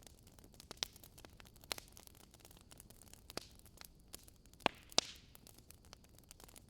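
Wood fire crackling: irregular snaps and pops over a faint hiss, with two louder pops a little past the middle.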